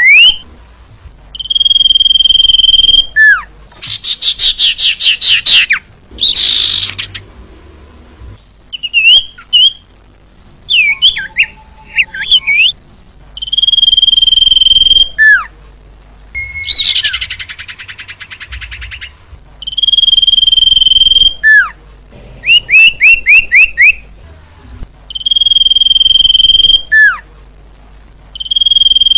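Common iora (cipoh) song. A long, steady, high whistle ending in a sharp falling note recurs about every six seconds, with rapid trills and chattering calls in between.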